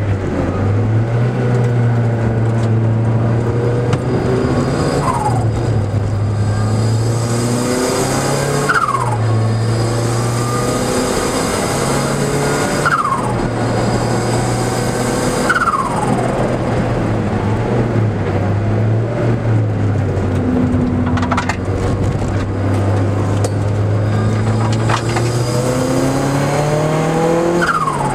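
Car engine heard from inside the cabin at full driving speed on a circuit lap, its pitch climbing again and again and falling sharply about six times as the revs drop, over a steady low cabin drone.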